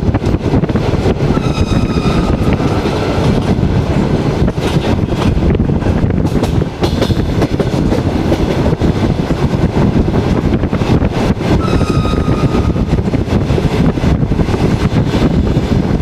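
Passenger train running at speed, heard from an open carriage window: a loud rumble of wheels with rapid clicking over the rail joints and wind on the microphone. Twice, about a second and a half in and again near twelve seconds, a short high whistle-like tone sounds over it.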